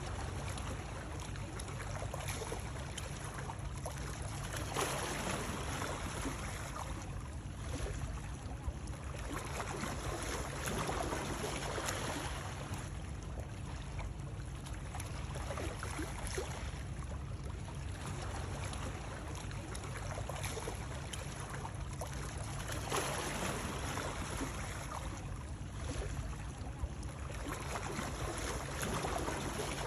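Steady water noise that swells and eases about every six seconds, over a constant low rumble.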